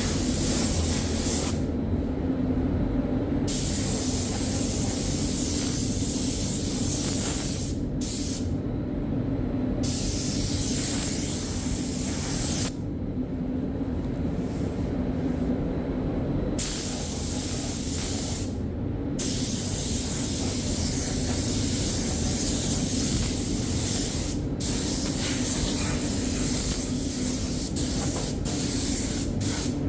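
Spray gun hissing as primer is sprayed onto bare sandblasted metal, in passes of a few seconds with short pauses between them. About two-thirds of the way in it settles into one longer continuous pass. A steady low hum runs underneath.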